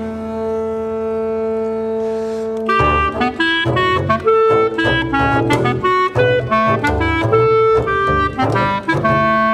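Clarinet holding one long note for nearly three seconds, then breaking into a quick string of short, jumping notes with low notes sounding underneath.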